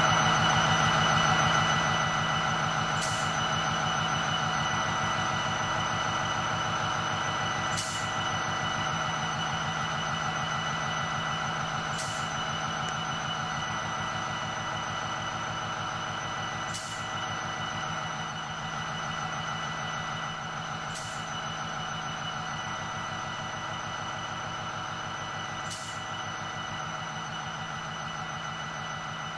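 A train's engine running steadily with a low, even throb, slowly fading as it moves away. A sharp click comes about every four to five seconds.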